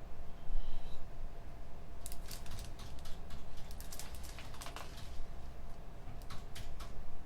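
Computer keyboard typing: a quick run of keystrokes starting about two seconds in, then a few single key taps near the end. A steady low hum sits under it.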